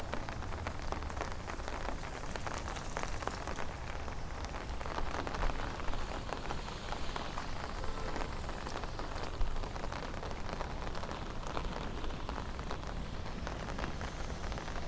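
Steady rain falling, with many small separate drop hits ticking through it.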